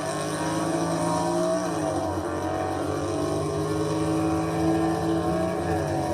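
Car engine running and revving, its pitch dropping about a third of the way in and again near the end before rising.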